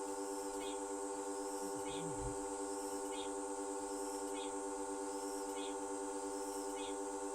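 Electric air pump running with a steady, even hum while inflating an air tarp, with a faint ticking about twice a second.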